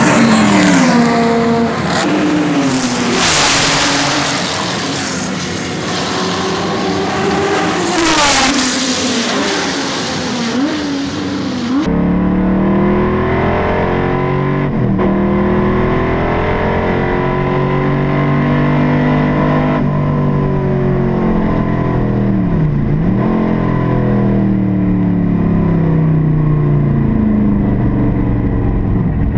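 Classic racing car engines at full throttle: cars passing at speed, two loud passes in the first part, then after an abrupt change about twelve seconds in, a single engine whose note repeatedly rises and falls in pitch with throttle and gear changes.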